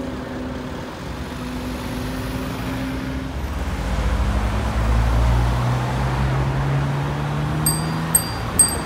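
Performance cars driving off in city traffic. A steady engine note fades, then an engine pulls away with a deep rumble, its pitch rising slowly as it accelerates. Near the end come a few sharp, high-pitched ringing ticks.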